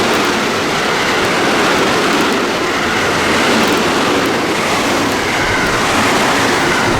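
Electric train passing through the station without stopping, a loud steady rush of wheel and running noise.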